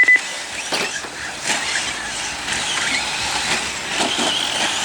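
Electric 4x4 RC trucks racing on the track: high electric motor whines rising and falling as they accelerate, over the hiss of tyres on the surface. A brief electronic beep sounds at the very start.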